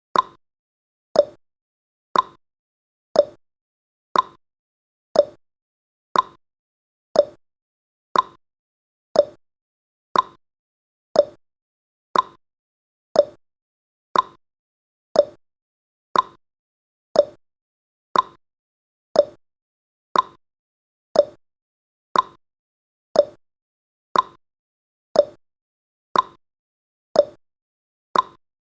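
Countdown timer's tick sound effect: one short, sharp tick every second, evenly spaced, each dying away quickly.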